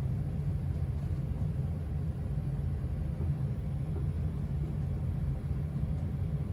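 1984 Casablanca Delta ceiling fan running on low speed: a steady low hum and rumble of the motor and moving air, its bearings still in good condition.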